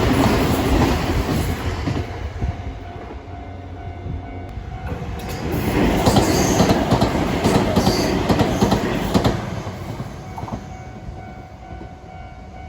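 Nankai Main Line electric train passing over a level crossing, its wheels clicking over the rail joints. The rumble fades in the first couple of seconds, then swells again with sharp joint clicks from about six to nine seconds in before dying away.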